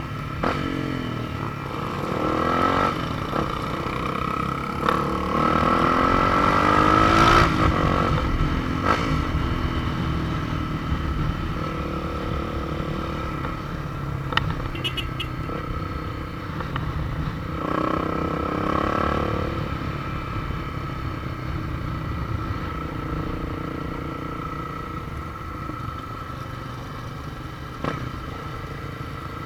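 Motorcycle engines running on the move, the engine note climbing and dropping as the bikes accelerate through the gears, most strongly in the first eight seconds and again briefly around eighteen seconds in.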